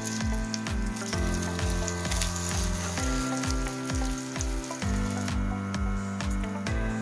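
Cottage-cheese patties sizzling as they fry in vegetable oil in a frying pan, heard under background music with a steady bass beat and sustained chords.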